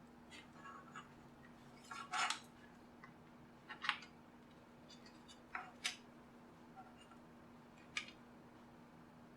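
Scattered small clicks and short scrapes of a tool prying and working at the casing and insides of a JBL Flip 2 Bluetooth speaker during its teardown, the loudest about two seconds in and a few more around four, six and eight seconds in.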